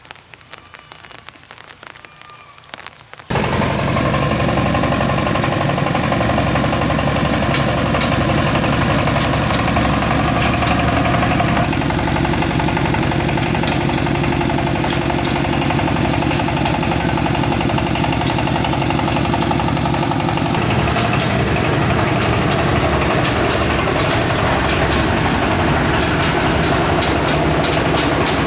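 An engine running steadily. It comes in suddenly about three seconds in, and its note shifts slightly twice.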